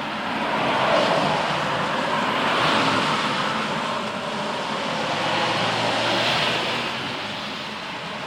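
Rolling thunder over steady rain, the rumble swelling about a second in and again around three and six seconds.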